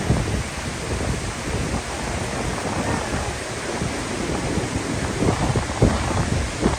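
Bridalveil Fall's water crashing down at close range, a steady dense rush, with gusty wind buffeting the microphone.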